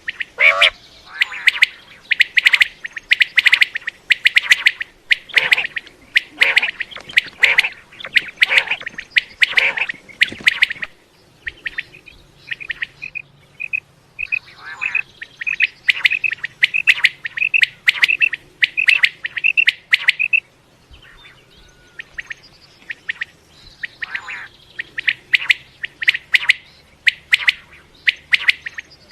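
Common quail calling: dense runs of short, sharp notes for the first ten seconds or so, then an evenly paced series of clipped notes about two or three a second, with dense calling again near the end.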